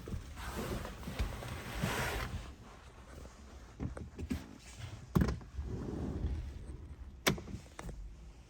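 Handling noises: rustling for the first two seconds, then a series of knocks and clicks, the loudest thunk about five seconds in and a sharp click about seven seconds in.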